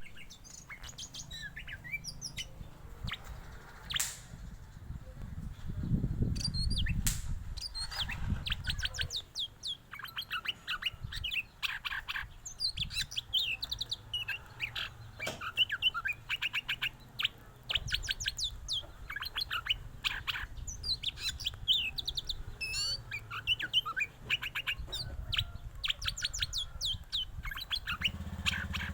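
Oriental magpie-robin singing a long, varied song of rapid chirps and whistled phrases, over a low background rumble.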